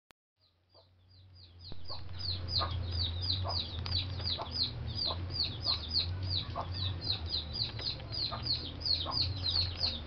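Birds chirping rapidly: a quick run of short, high, falling peeps, about four a second, starting about a second and a half in, over a steady low hum.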